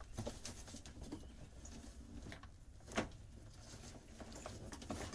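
Hands rummaging through loose items in a storage compartment: light rustling and small clicks, with one sharper knock about three seconds in.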